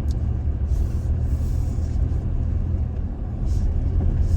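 Toyota Tacoma pickup driving slowly along a rough dirt track, a steady low engine and tyre rumble.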